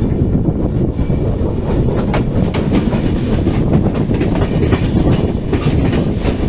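Local passenger train running along the track: a loud, steady, heavy rumble with scattered clicks from the wheels.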